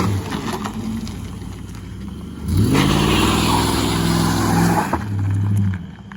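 2002 Ford Crown Victoria's 4.6-litre V8 revving: the revs fall off at first, then climb sharply about two and a half seconds in, hold high for about two seconds and drop back to a lower note near the end.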